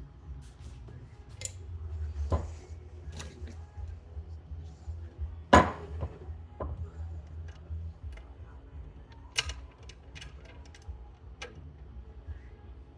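Metal engine parts of a split ATV engine case clinking and knocking as they are handled on a bench, with one louder knock about five and a half seconds in, over a low steady hum.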